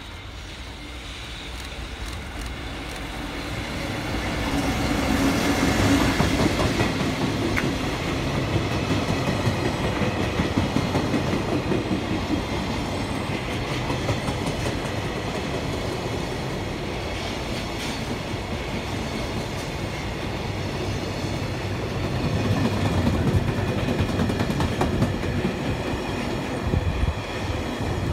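JR Freight EF65 electric locomotive and its long train of container wagons passing close by. The sound builds over the first six seconds as the locomotive comes past, then gives way to a steady rumble of the wagons rolling by, with wheels clattering over the rail joints.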